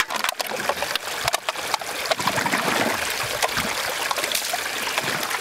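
Water trickling and running in a stream, an even rushing noise, with many small crackling clicks from close handling.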